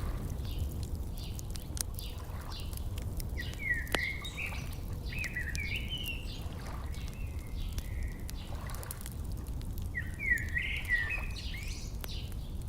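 Campfire crackling with scattered sharp pops over a steady low rumble, while a songbird sings short warbled phrases three times.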